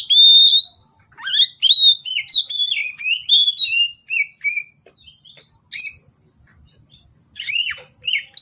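Oriental magpie-robin (kacer) singing loud, varied whistled phrases with rising and falling notes. There is a pause in the middle, broken by one sharp click, and the song starts again near the end.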